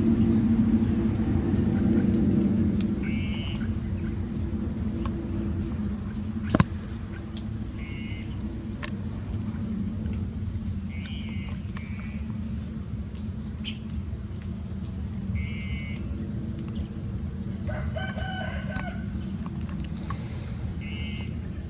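Birds calling: short high calls every few seconds and one longer, lower call near the end, over a steady low hum. There is a single sharp click about six and a half seconds in.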